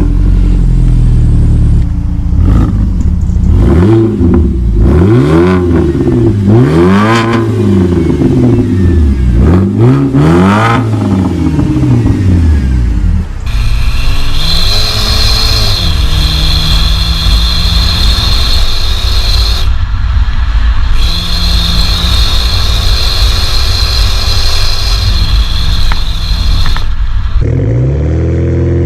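BMW 1 Series car engine and exhaust revved several times, each rev rising and falling in pitch. It then pulls under steady load, the pitch climbing slowly and dropping at gear changes about two-thirds of the way through and again near the end, before a few more revs.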